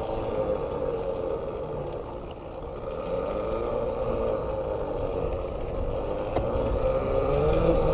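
A small bike motor running steadily, with a sustained whine that drifts a little up and down in pitch.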